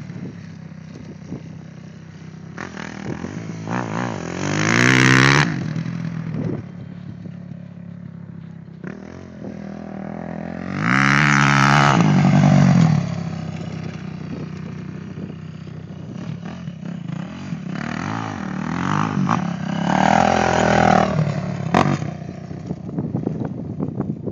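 Motocross bikes revving hard on the track, their engine pitch rising and falling as they accelerate and shift. Three loud passes stand out, about five seconds in, around eleven to thirteen seconds, and near twenty seconds, with quieter engines running in between.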